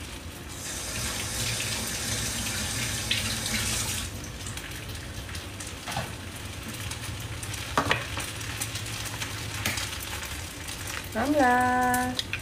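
Rice vermicelli frying in a wok, a steady quiet sizzle, with a louder hiss during the first few seconds and a few sharp clicks. Near the end a short hummed voice rises in pitch.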